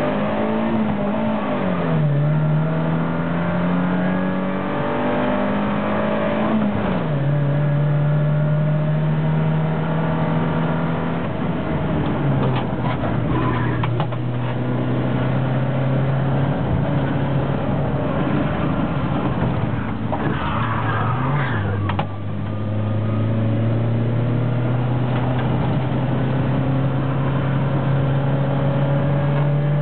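Hillman Imp's engine heard from inside the cabin, driven hard on a sprint run. The engine note climbs and then drops sharply several times at gear changes or lifts, and holds steady between them, with a few knocks and rattles from the car along the way.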